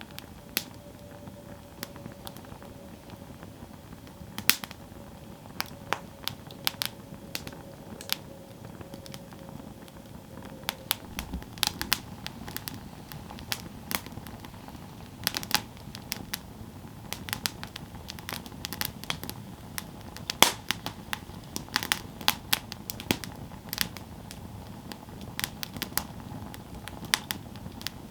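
Campfire burning, wood crackling and popping in irregular sharp snaps over a low steady rush of flame; the pops come thicker after about ten seconds. A faint steady tone fades out about ten seconds in.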